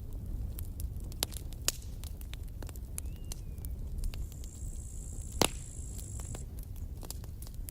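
Campfire burning with a low steady rumble and irregular crackles and pops, the sharpest pop about five and a half seconds in. A thin high whine runs for about two seconds just before that pop.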